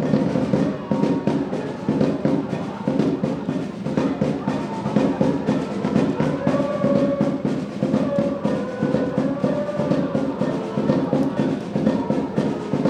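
Music carried by fast, steady drumming, with a wavering melody line over the beat.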